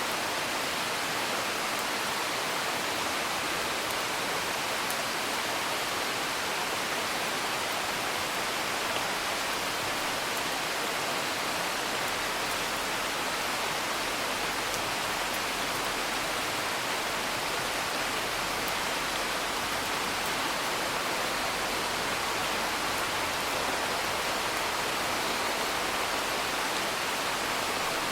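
Steady, even rain heard from indoors, a dense continuous patter. A few faint scattered crackles from a wood fire show through it.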